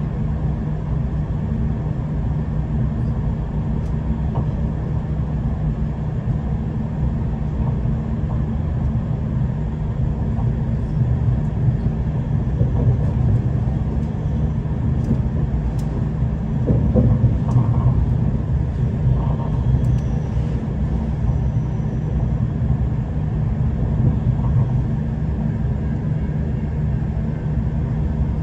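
V/Line diesel passenger train running along the line, heard from inside the carriage: a steady low rumble of the running train that swells a little past the middle.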